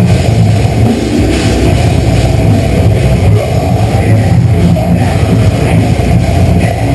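Deathcore band playing live at full volume: down-tuned distorted guitars, bass and heavy drums, recorded close in the pit so the sound is loud and saturated.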